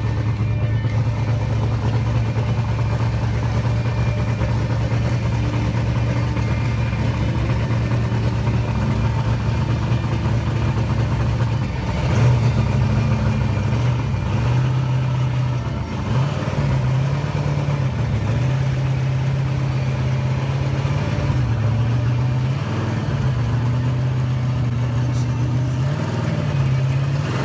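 Muscle car engine idling with a steady low rumble, the revs rising and dipping a little a few times around the middle and toward the end.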